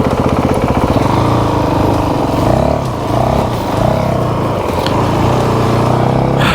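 Motorcycle engine running while riding, its pitch rising and falling as the throttle is opened and eased off.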